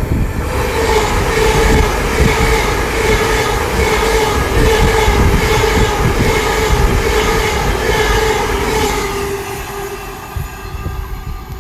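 Ten-coach Hitachi Class 802 bi-mode IET passing through at speed on its underfloor diesel engines: a loud rush of wheels and engines with a steady tone and a regular wheel clatter. It fades away as the train draws off near the end.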